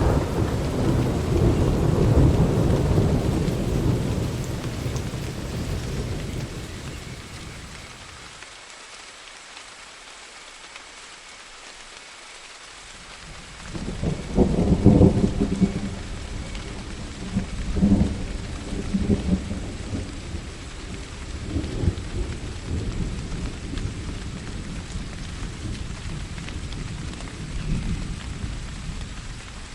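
Steady rain with thunder. A long rumble fades away over the first several seconds; after a quieter stretch, a loud thunderclap breaks about fourteen seconds in, another about four seconds later, and further rolls of thunder follow.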